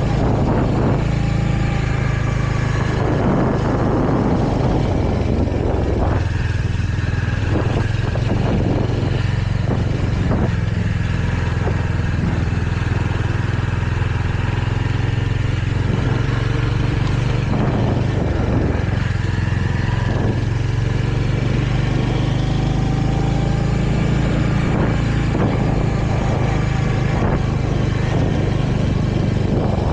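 Royal Enfield Hunter 350's single-cylinder engine running steadily under a riding load, heard from the rider's seat, with only small changes in engine speed.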